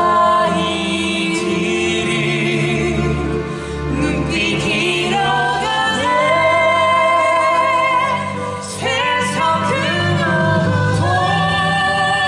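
A song with a singer holding long notes with vibrato over musical accompaniment.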